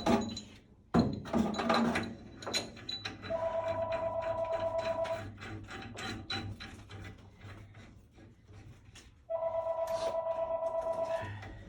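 A telephone ringing twice, each ring a warbling two-tone trill about two seconds long with a pause of about four seconds between. A sharp knock and some rattling come about a second in.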